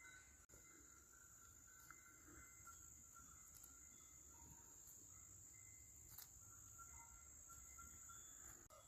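Faint, steady high-pitched drone of insects outdoors, close to near silence.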